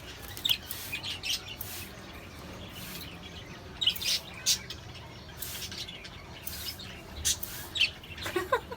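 A pet parrot giving a series of short, high chirps and squawks, scattered through the clip between brief sharp noises.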